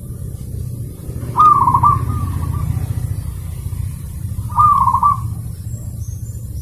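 Zebra dove (perkutut) cooing: two loud rolling coos about three seconds apart, over a steady low hum.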